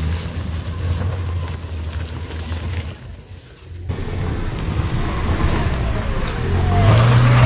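Toyota Rush SUV's four-cylinder petrol engine running under load as it climbs a steep dirt track, with a steady low engine tone. The sound drops away about three seconds in, changes abruptly a second later, and the engine is louder again near the end.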